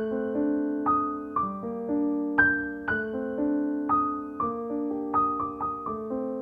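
Background music: a gentle solo piano piece, single notes and chords struck about once or twice a second, each ringing and fading.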